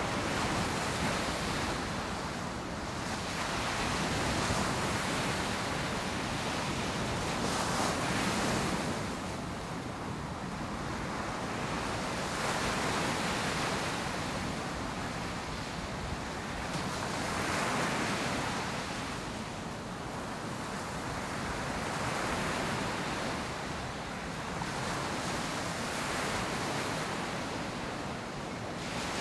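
Ocean surf breaking on a beach: a continuous wash of waves that swells and eases every few seconds, with some wind on the microphone.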